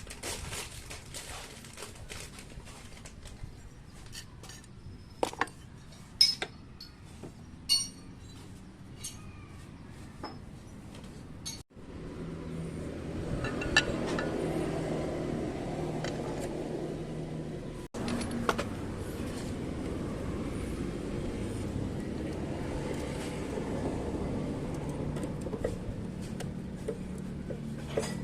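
Metal tools and parts clinking for the first dozen seconds. After that a scooter engine runs steadily at idle.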